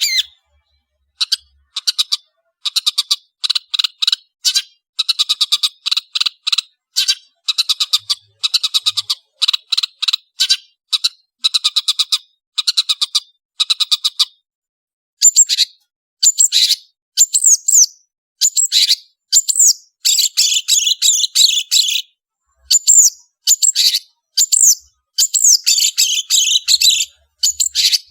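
Long-tailed shrike (cendet) singing in a chattering song: for the first half, quick runs of short harsh repeated notes in bursts; from about halfway, more varied, higher phrases with whistled slurs.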